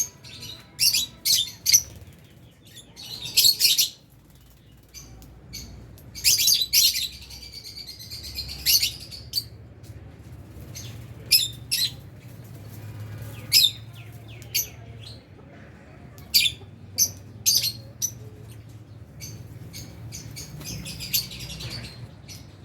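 A flock of lovebirds chirping: many short, sharp, high chirps, some single and some in quick chattering runs. The chatter is busiest about three seconds in, again from about six to nine seconds, and near the end.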